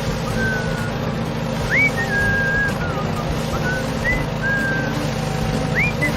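A steady engine-like hum runs throughout. Over it comes a string of high whistled notes, some held and two sweeping sharply upward.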